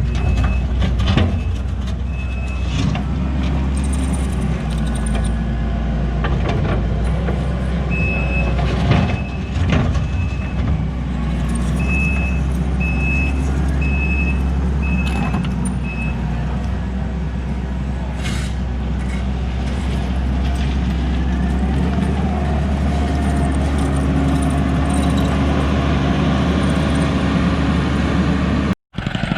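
Diesel heavy-equipment engine running steadily under load, with a backup alarm beeping in runs near the start and again from about 8 to 16 seconds in, and scattered knocks and clanks of machine work.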